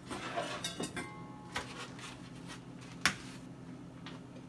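Light clicks and knocks of a bowl and kitchen things being handled, with one sharp knock about three seconds in.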